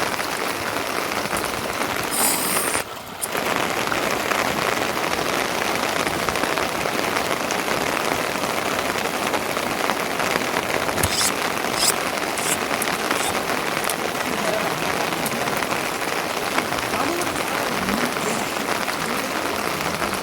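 Steady rain falling, with a brief drop in the sound about three seconds in.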